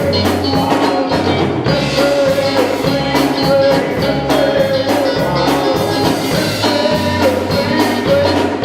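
Live gospel band music: an upbeat number with a drum kit keeping a steady beat under a moving bass line and sustained higher instrument or vocal notes.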